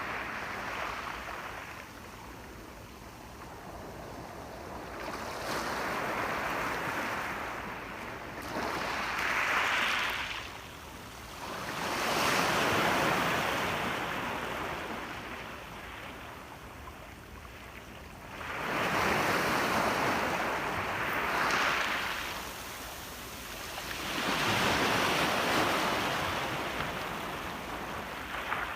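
Ocean waves breaking on a shore in slow, repeated surges, each swell of surf rising and fading over a few seconds, with a light wash of wind.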